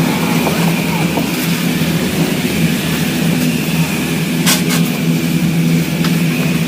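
Ski lift machinery running with a steady hum, with a sharp clack about four and a half seconds in.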